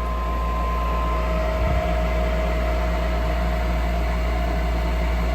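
Gas furnace's draft inducer motor running steadily with a low hum and a thin whine, with one brief knock a little under two seconds in. The pressure switch it should close keeps opening and closing: the technician finds the switch faulty, and the furnace ends in a pressure-switch lockout.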